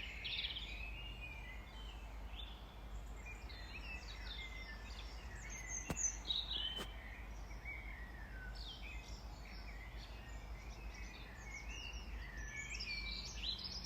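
Several small garden birds chirping and singing, with overlapping quick chirps and short trills, over a steady low rumble. Two sharp clicks come about six and seven seconds in.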